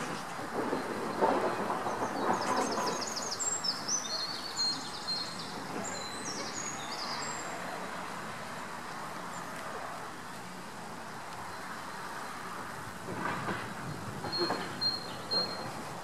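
Steady outdoor background noise, with a bird singing a quick run of high notes for about five seconds, starting a couple of seconds in.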